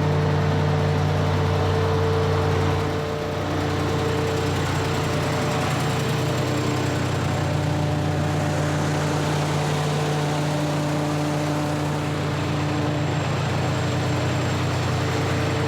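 Semi-truck diesel engine idling steadily, close by, with a slight change in its note about three seconds in.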